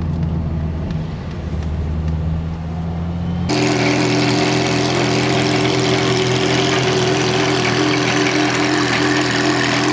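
A car engine droning steadily, heard from inside the cabin. About three and a half seconds in it changes suddenly to a louder, brighter steady engine idle: a Ferrari 348's V8 idling.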